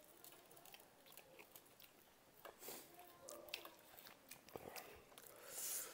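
Faint chewing and small wet mouth clicks of people eating, with a soft hiss near the end.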